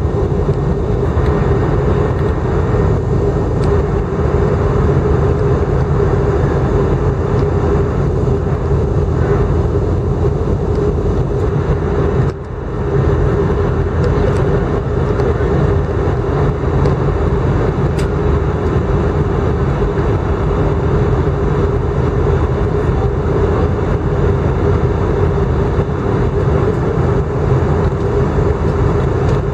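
Airbus A319 airliner in flight on approach, heard from the passenger cabin: a steady drone of engines and rushing airflow with a steady hum over it. The level dips briefly about twelve seconds in.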